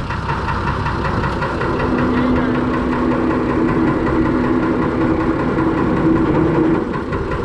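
A Fordson Major tractor's swapped-in Perkins straight-six diesel engine idling steadily. A steady whine joins in from about a second and a half in and stops near the end.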